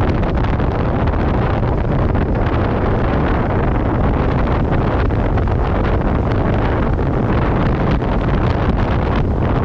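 Wind buffeting a helmet-mounted camera's microphone on a moving motorcycle: a loud, steady, low rumble.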